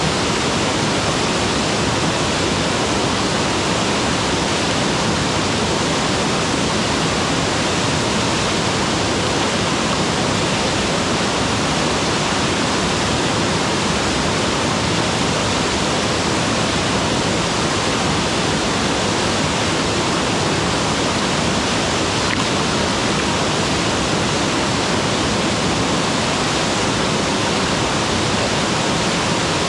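Mountain waterfall: water pouring and splashing in a steady, unbroken rush.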